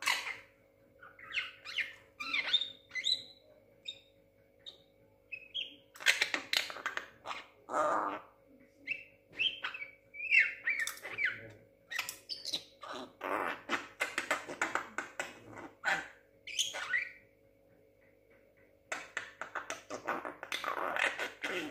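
Young Javan myna calling: short whistled notes mixed with harsh, scratchy squawks and chatter, in irregular bursts with a brief pause near the end.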